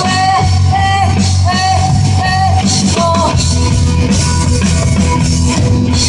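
Rock music with drums and guitar: a sung melody with held notes over a steady beat, and the band playing on without the voice for the last few seconds.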